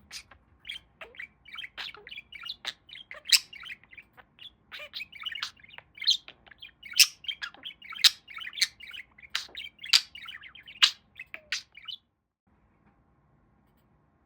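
Male pet budgie warbling and chattering in a fast run of chirps with sharp, high squeaks mixed in, stopping abruptly near the end.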